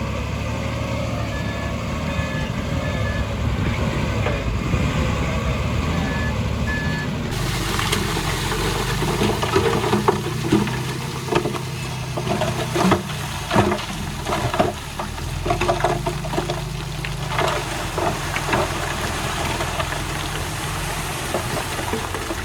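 Diesel engines of heavy earthmoving machinery running steadily, with a few short reversing-alarm beeps in the first part. About seven seconds in the sound changes abruptly, and many irregular knocks and rattles of soil and stone follow over the engine.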